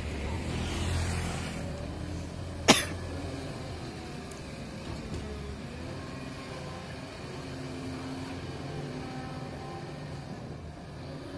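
Caterpillar 320D excavator's diesel engine running, heavier for the first few seconds and then settling lower, with a single sharp knock about two and a half seconds in.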